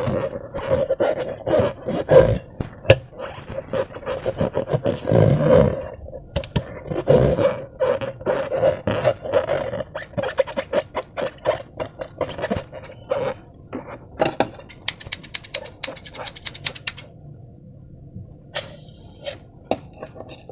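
Slime and a rubber balloon being worked by hand: a stretching-rubber squeak or groan broken by many small wet clicks and squelches, then a quick run of sharp crackling clicks about three-quarters through.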